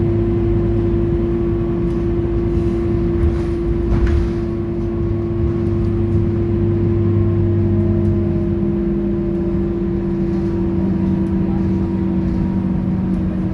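Scania K230UB city bus engine running at a steady speed, a constant hum with a low drone that shifts slightly in pitch about eight seconds in. A short knock is heard about four seconds in.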